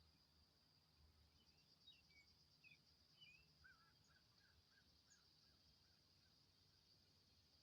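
Faint outdoor ambience: a steady high insect trill with a few scattered bird chirps, then a short run of about seven quick repeated bird notes about halfway through.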